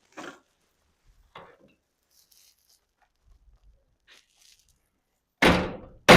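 A few faint clicks, then two loud metallic bangs about two-thirds of a second apart near the end, each ringing briefly: metal on a steel garage door track being struck, as when bending it straight.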